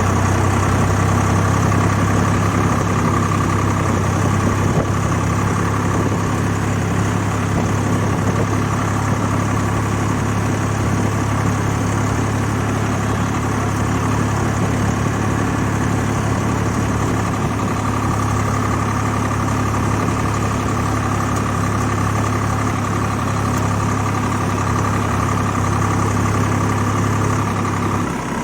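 Swaraj 855 FE tractor's three-cylinder diesel engine running at a steady pitch, with a low hum. The engine sound drops away slightly just before the end.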